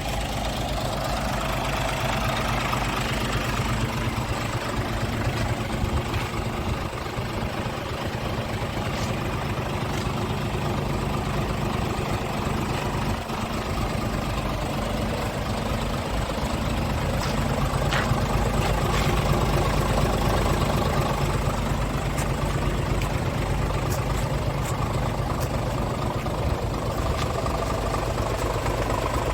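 Scania R450 truck's 13-litre inline-six diesel engine idling steadily, with a few light clicks in the second half.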